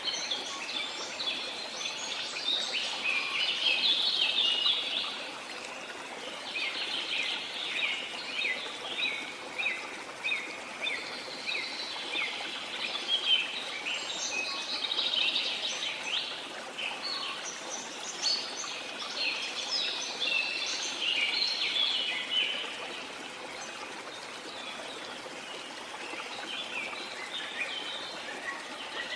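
Dense, chattering birdsong from several birds over the steady rush of flowing water, with the birdsong thinning out near the end.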